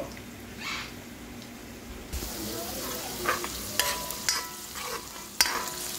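Onions, red chillies and tomatoes sizzling in hot oil in a wok, stirred with a metal spoon that scrapes and clinks against the pan, some clinks ringing briefly. The sizzle comes in about two seconds in, after a quieter start.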